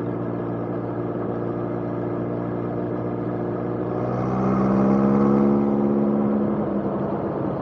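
Motorcycle engine running steadily under way, then rising in pitch and getting louder about four seconds in as it accelerates, holding at the higher note.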